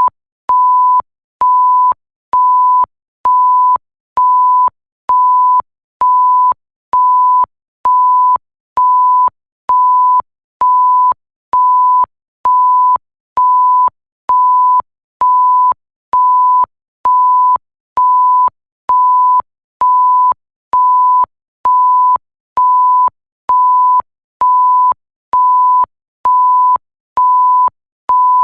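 Censor-style bleep tone, a pure tone at about 1 kHz, sounding in even short beeps a little over once a second, each about half a second long with a faint click as it switches on and off.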